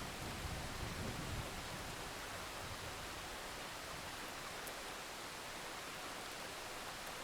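Steady rain with an even hiss, as the tail of a low thunder rumble fades out over the first second and a half.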